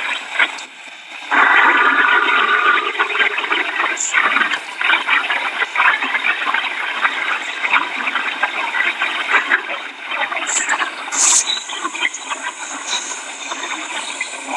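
Steady rushing noise of hurricane rain and wind, with a brief pitched sound about a second and a half in and a few scattered clicks.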